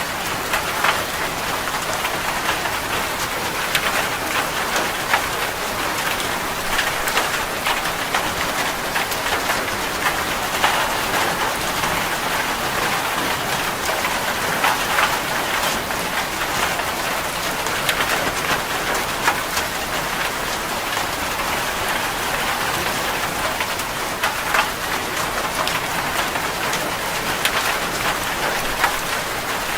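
Steady rain falling on a surface, a continuous hiss dotted with many close, sharp drop hits.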